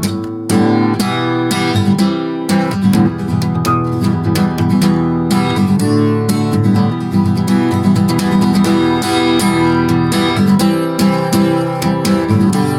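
Acoustic guitar strummed in an instrumental break between sung verses, with steady chord strokes that get louder and fuller about half a second in.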